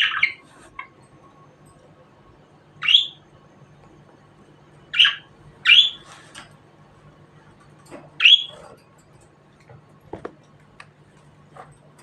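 Budgerigar giving short, sharp chirps, four of them a second or more apart. A few faint clicks follow near the end.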